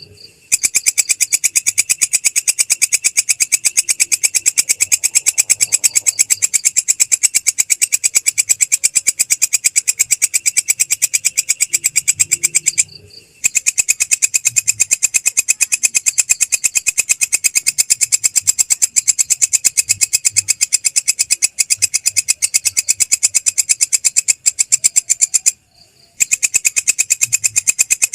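Belalang krek insect stridulating in a loud, rapid pulsed trill, breaking off briefly twice, once about halfway and once near the end.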